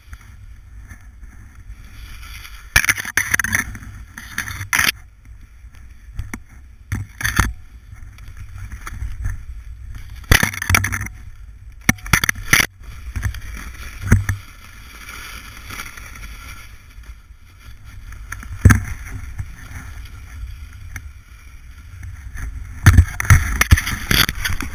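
A snowboard sliding and scraping over snow with a steady low rumble of vibration and wind on the camera microphone. It comes in hissing surges broken by sharp knocks and thumps, several of them, as the board hits bumps.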